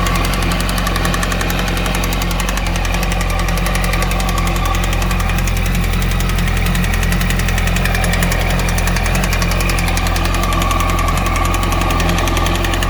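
2008 Yamaha YZF R1's inline-four engine running steadily without revving, with a fast, even knocking over the engine note, the engine knock the owner is showing.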